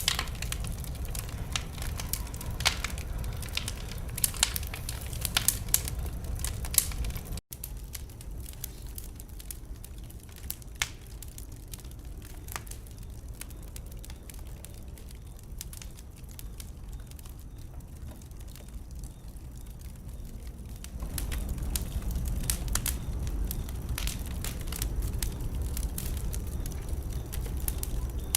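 Wood fire in a fireplace crackling, with sharp pops over a steady low rumble of flame. The pops come thick at first, there is a brief dropout about a quarter in, they thin out and quieten through the middle, and the fire grows louder and busier again about two-thirds in.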